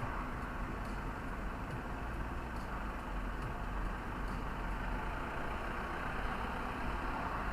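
Steady road and engine noise of a car heard from inside the cabin while driving, with a deep low rumble. Faint light ticks come a little under once a second throughout.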